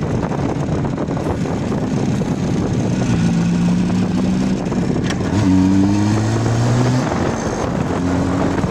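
Motorcycle engine running under way with a rush of wind. About halfway through its pitch steps up and then climbs slowly.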